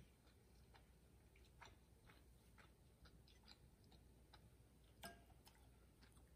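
Faint close-mouthed chewing of tteokbokki: scattered small wet mouth clicks, with one slightly louder click about five seconds in.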